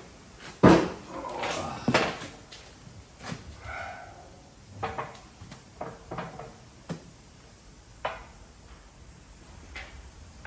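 A series of knocks and clanks of heavy parts being fitted in place on a shop press, set up to push worn bushings out of a truck leaf spring. The loudest clank comes about a second in, with smaller knocks scattered after it.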